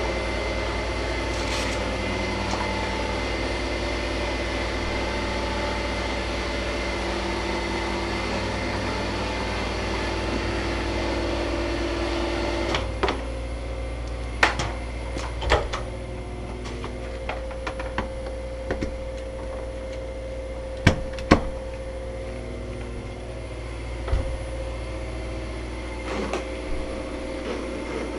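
Steady hum of refrigeration machinery running, a little louder for the first dozen seconds. In the second half come scattered sharp knocks and clatter, the loudest a pair of knocks about three-quarters of the way in.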